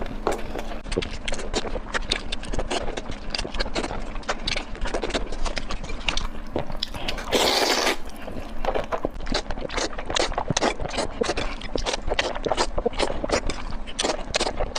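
Close-miked eating sounds: rapid wet mouth clicks and smacks of chewing, with one longer noisy burst about seven seconds in.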